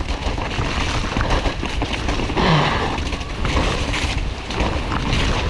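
Mountain bike descending a wet, muddy trail at speed: a steady rush of tyre and trail noise under heavy wind rumble on the helmet camera's microphone, with a brief louder hiss about two and a half seconds in.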